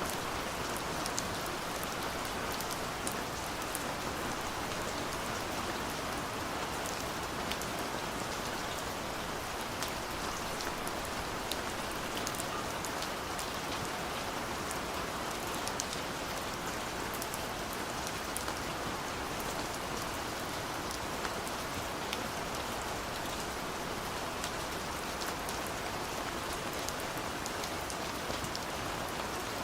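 Steady light rain, with a constant hiss and many small drops ticking sharply on a surface.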